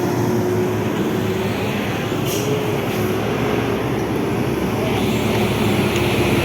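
Heavy diesel vehicle engine running steadily with a low hum and a held tone that wavers slightly about two and a half seconds in.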